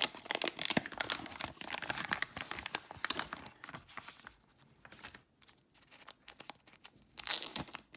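Wrapper of a trading-card mystery pack crinkling and tearing as it is opened, in a run of quick crackles over the first few seconds, a quieter stretch, then a louder burst of crinkling near the end.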